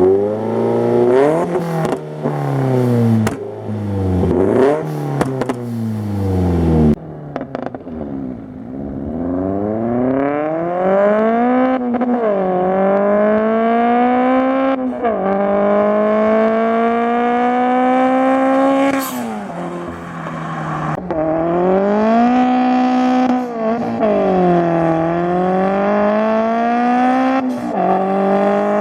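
Car engine with an aftermarket hater pipe front-pipe exhaust being driven hard through the gears of a manual gearbox: the revs swing up and down, then climb in long pulls that drop sharply and climb again at each gear change, several times over.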